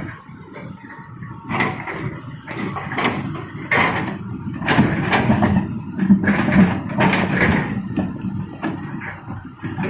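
Rocks scraping and clattering in a run of irregular bursts as they are scooped and loaded, the loudest in the middle.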